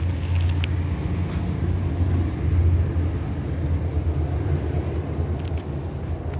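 A car being driven: a steady low engine and road rumble.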